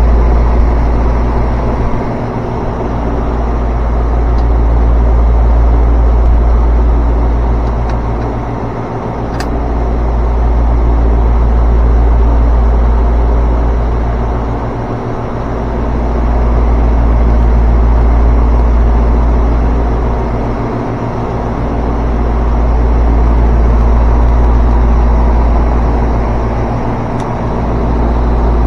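HVAC equipment running: a steady motor hum over a deep rumble that swells and dips about every six seconds, with a single click about nine seconds in.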